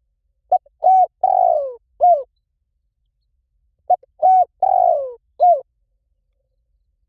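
Spotted dove cooing: two phrases, each a few short coos around one longer, falling coo, about three and a half seconds apart.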